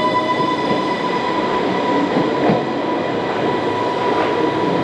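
Island Line Class 484 electric train, converted from London Underground D-stock, moving off past the platform: a steady rumble of wheels on rail with a few faint clicks, under a constant high whine.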